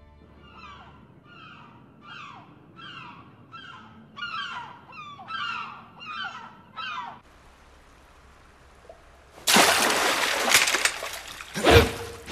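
A bird calling over and over, a dozen or so short, falling calls about two a second. About nine and a half seconds in, loud splashing water and hits break in.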